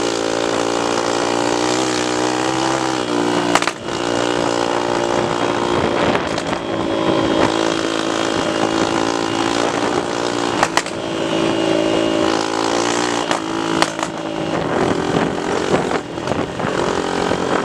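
Honda XL trail motorcycle's single-cylinder four-stroke engine running under way, heard from the rider's chest, with a brief drop in revs about three and a half seconds in and an occasional knock. Wind rushes over the microphone throughout.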